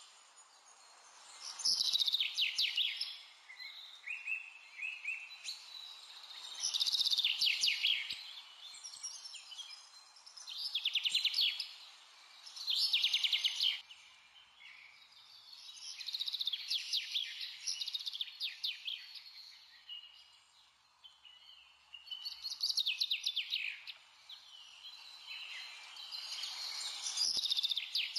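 A songbird singing in repeated phrases of rapid trills, about every three to five seconds, over a faint steady hiss.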